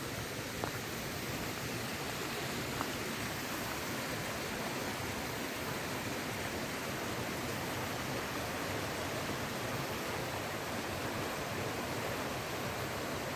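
Steady rush of running water, even and unbroken, with a couple of faint clicks in the first few seconds.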